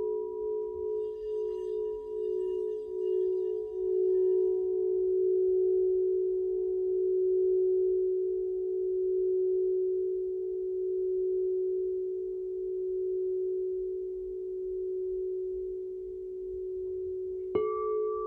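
Crystal singing bowls ringing in long sustained tones that swell and pulse slowly as they beat against each other, with a brief high shimmer early on. Near the end another bowl is struck sharply and starts a new, higher tone.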